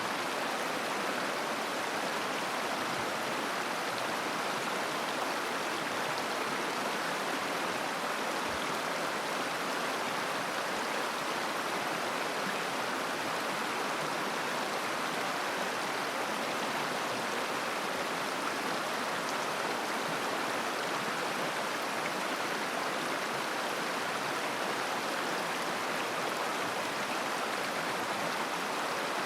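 River water flowing in a steady, even babbling rush.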